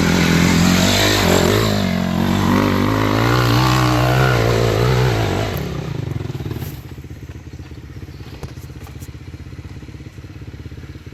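Motocross dirt bike engine revving, its pitch rising and falling, then settling to a steady idle about six seconds in.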